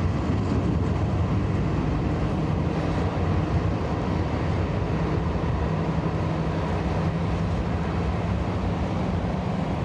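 Boeing 777-300ER airliner on the ground after landing: a steady low rumble with a hiss over it, and a steady hum that comes in about halfway through.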